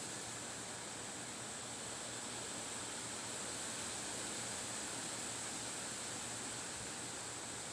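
Steady, even hiss that holds the same level throughout, without gusts or breaks.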